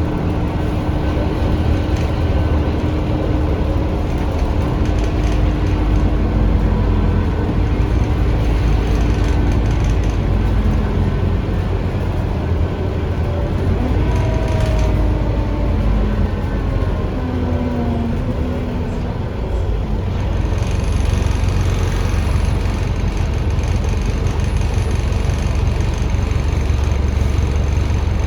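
Scania K310UA articulated bus heard on board while under way: the Scania DC9 engine and ZF Ecomat automatic driveline drone steadily, with whining tones that glide in pitch about halfway through as the speed changes.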